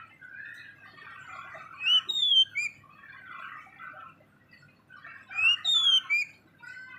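A bird gives two loud phrases of three or four sharp, sliding whistled notes, about two seconds in and again near five and a half seconds. Softer, continuous chattering runs underneath.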